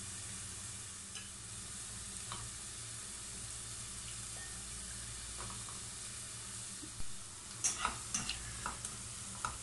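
Eggplant slices and chopped onions frying in a little oil, giving a soft, steady sizzling hiss. A few light taps and clatters come near the end as more slices are laid into the grill pan.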